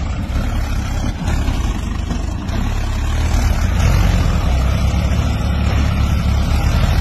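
A 4WD farm tractor's diesel engine running steadily with a deep drone, swelling a little louder midway.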